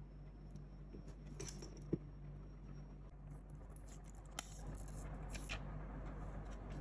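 Hands handling packaging and small camera parts during an unboxing: scattered light clicks and rustles, with a sharp knock about two seconds in and a crisp click a little after four seconds, over a steady low hum.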